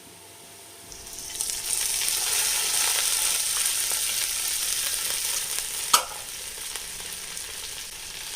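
Onions frying in ghee and oil in a pan, being stirred. The sizzle is quiet at first and swells about a second in. A single sharp knock comes about six seconds in, and the sizzle is lower after it.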